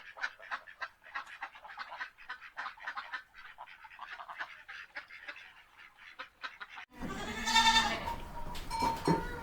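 Ducks quacking: a rapid run of many short quacks for about seven seconds, then a sudden change to a louder recording with longer, drawn-out calls.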